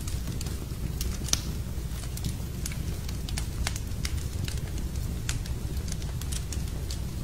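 Wood fire burning in a fireplace: irregular sharp crackles and pops, the loudest about a second in, over a steady low rumble.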